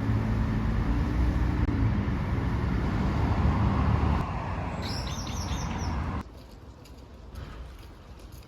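Steady, loud low mechanical rumble that cuts off abruptly about six seconds in, with a quick run of high bird chirps about five seconds in.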